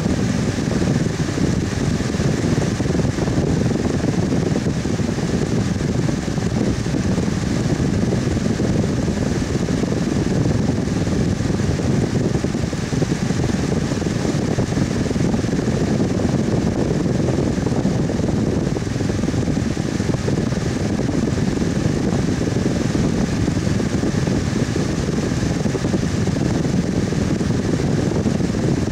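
Electric fan running steadily, a constant low rushing hum with a faint steady tone over it.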